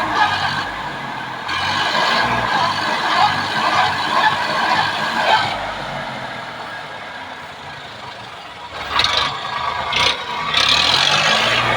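Tractor engine running amid loud, wavering noise, with a few sudden surges a couple of seconds before the end as the engine takes on a steadier low note.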